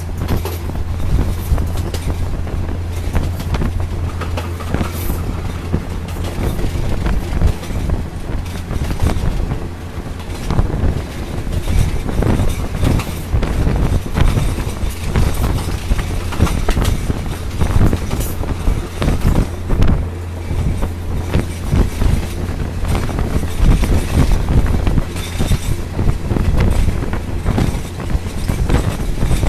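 Diesel commuter train running at speed, heard from an open carriage window: a steady low engine hum under the continuous rattle and clatter of wheels on the rails, with wind rushing past.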